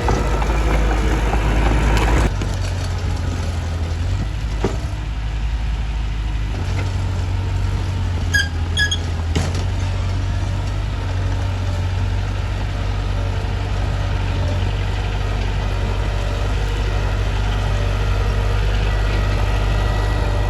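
Mitsubishi bulldozer's diesel engine running steadily with a low drone, easing off slightly about two seconds in. Two short, high-pitched chirps sound a little past the middle.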